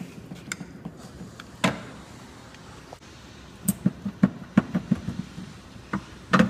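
The plastic windshield cowl panel and its trim clips clicking and knocking as the cowl is pried up. There is a sharp click about a second and a half in, a run of small knocks and clicks in the middle, and a louder snap near the end.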